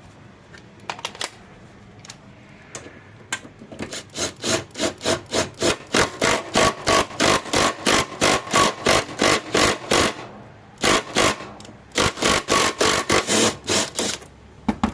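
Ratchet wrench clicking in quick repeated strokes, about four a second, tightening the bolt that draws the keyed blade hub onto the mower's crankshaft, with a short pause partway through.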